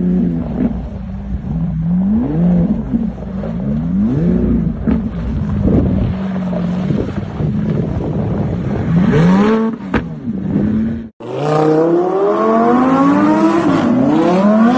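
Lamborghini Aventador V12 revving up and down repeatedly as the car slides sideways on snow. About three-quarters of the way through there is a sudden break, and a second supercar's engine then revs in quick rising sweeps as it spins donuts on asphalt.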